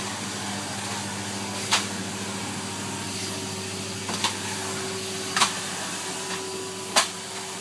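Bagged Hoover vacuum cleaner running with a steady hum and rushing air, with four brief sharp knocks spread through it.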